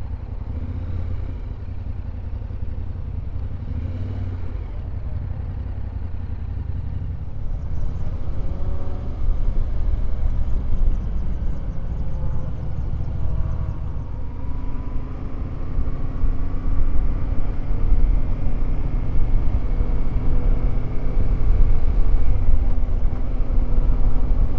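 Yamaha Ténéré 700's parallel-twin engine running on the move, under a heavy low rumble. The engine pitch climbs as the bike accelerates, about a third of the way in and again past halfway, and it grows louder toward the end.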